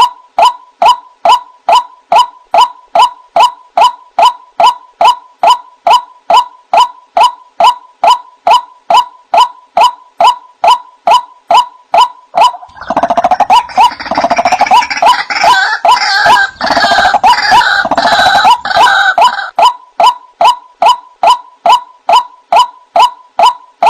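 White-breasted waterhen calling: a steady string of short, identical 'wak' notes, about three a second. A few seconds past the middle they give way for about seven seconds to a louder, harsher jumble of overlapping calls, then the even notes resume.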